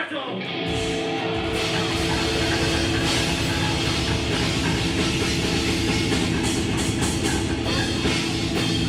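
Grindcore band playing live: loud distorted guitars and drums kick in right at the start and carry on as a dense, steady wall of sound.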